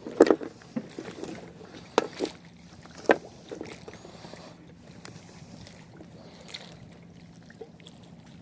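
Knocks and handling noises aboard a small fishing boat: three sharp knocks in the first three seconds, then softer scattered taps over a faint, steady low hum.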